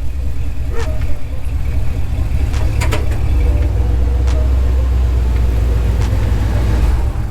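Vehicle engine idling with a steady low rumble, a few light clicks over it. The rumble deepens past the middle, then eases off just before the end.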